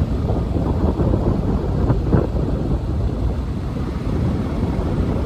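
Truck driving along, a steady low rumble of engine and road noise with a few faint rattles.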